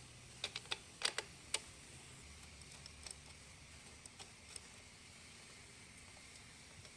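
A quick run of light, sharp clicks and taps, like small hard parts being handled and set down, then a few fainter clicks a couple of seconds later.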